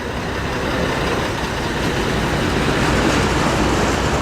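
Diesel engine of an AEC Marshall flatbed lorry running as the lorry drives by, growing louder to a peak about three seconds in over a steady low rumble.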